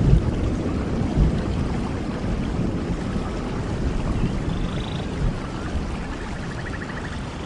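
Steady rain with a deep low rumble under it. Two faint short calls sound over the rain, about halfway through and again near the end.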